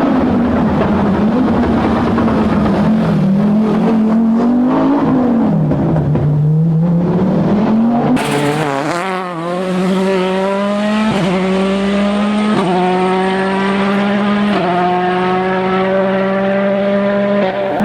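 Rally car engine at full race pace: in the first half its revs swing up and down through corners, then it accelerates hard through the gears, the pitch climbing steadily and dropping sharply at each of about three upshifts.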